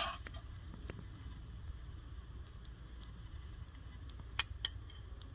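Campfire cooking heard low: a steady low rumble with a few sharp clicks and pops, about four seconds in.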